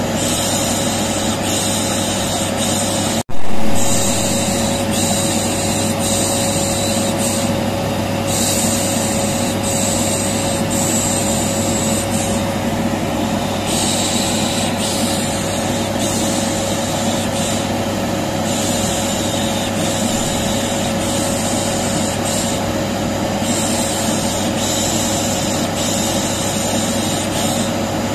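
Vacuum cleaner motor running steadily with a constant hum, overlaid with repeated 'shh' shushing hisses that come and go every second or two. About three seconds in, the sound cuts out for an instant and comes back louder before settling.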